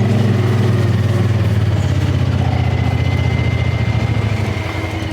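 Buggy's engine running steadily, its note shifting about two seconds in and easing off a little near the end.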